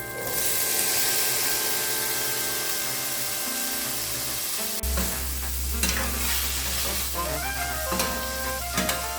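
Food sizzling as it fries in a pan, with a steady hiss that is strongest in the first few seconds.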